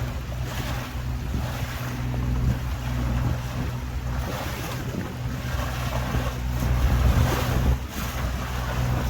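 Tour boat's engine running steadily under way, with wind buffeting the microphone and water rushing past the hull.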